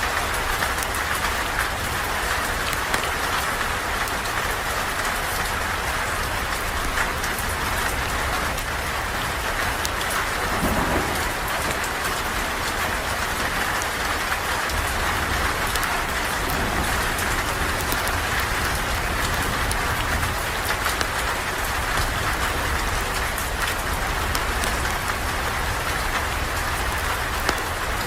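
Steady rain falling, with scattered sharp crackles from a campfire burning.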